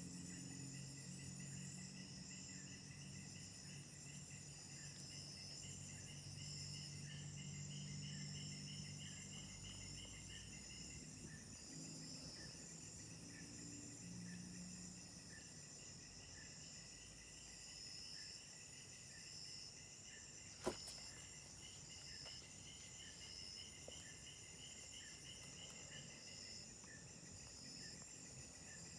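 Forest insects chirring: several overlapping high, finely pulsing trills that keep going throughout, with a low steady hum underneath for roughly the first half and a single sharp click about two-thirds of the way through.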